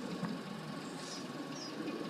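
Steady low engine hum, with a few faint high bird chirps over it.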